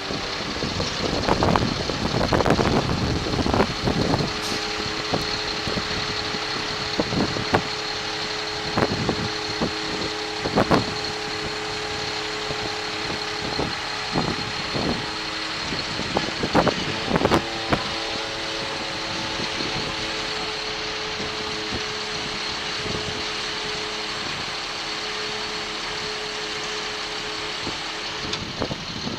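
Diesel engine of a 2005 Sterling tandem-axle flatbed truck running steadily at idle, with a steady hum and a faint high whine, broken by irregular sharp clicks and knocks, most of them in the first half.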